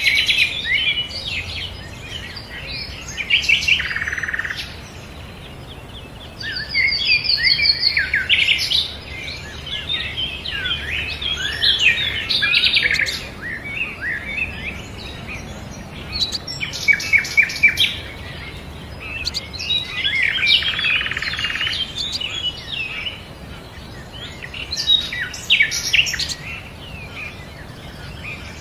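Olive-backed sunbird (kolibri ninja) singing: rapid, high chirps and trills in bursts every few seconds, with short pauses between them.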